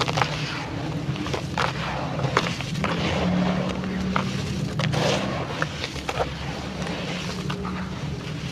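Crunching and crumbling of dry charcoal-coloured clay, with many sharp snaps and crackles scattered throughout, over a steady low hum.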